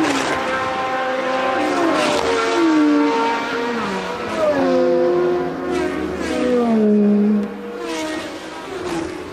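A string of Formula One cars passing one after another at racing speed. Each engine note is high and then drops in pitch as the car goes by.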